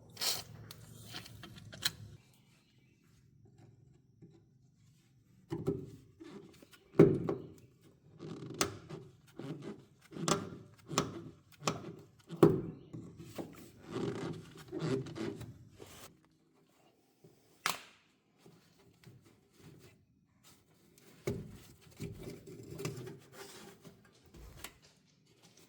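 Irregular knocks, clicks and thunks of hand tools and parts being handled during garage work on a truck. They come in clusters with quiet gaps between, with the loudest thunk about seven seconds in and a single sharp click a little past halfway.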